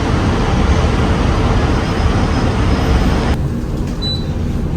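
Loud, steady roar of outdoor background noise that cuts off abruptly about three and a half seconds in, giving way to a quieter steady hum.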